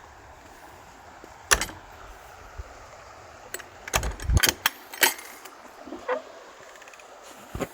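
Steady rush of river water, broken by several sharp knocks and clicks: one about a second and a half in, a cluster about four to five seconds in, and smaller ones near the end.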